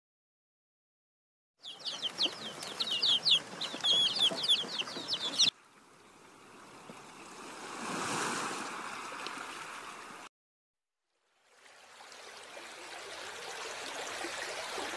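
Chickens calling: a rapid string of many short, high calls for about four seconds. After that, a steady rushing noise swells and fades, breaks off briefly, then returns.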